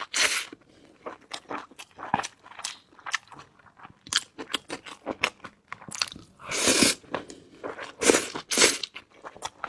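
Close-miked chewing and crunching of food: a run of small wet clicks and crunches, with a few louder, longer bursts near the middle and toward the end.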